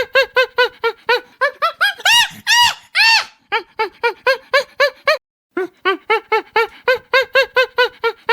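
A farm animal calling in a rapid series of short, pitched cries, about five or six a second, with a few longer, louder, higher cries a couple of seconds in; the series stops briefly about five seconds in and then starts over in the same pattern.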